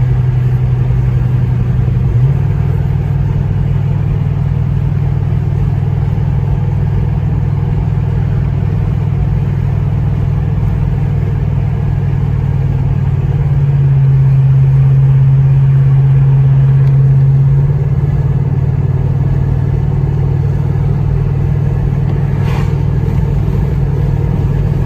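Vehicle engine droning steadily while driving, heard from inside the cab; the pitch shifts about two seconds in, and it runs louder for a few seconds in the middle.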